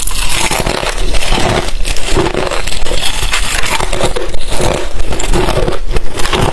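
Crushed ice chips being chewed close to the microphone: a loud, continuous run of irregular crunches.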